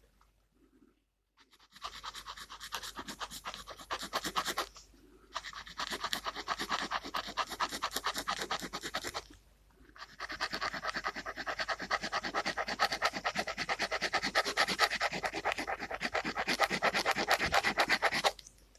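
Gel pen scratching quickly back and forth on paper, colouring in, in three stretches of rapid strokes with short pauses between them.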